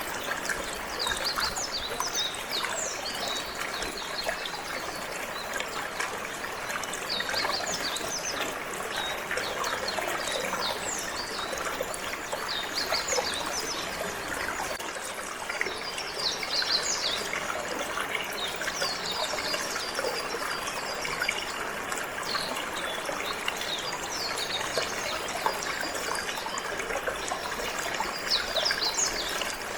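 Water flowing and trickling steadily, with canaries giving short high chirps again and again over it.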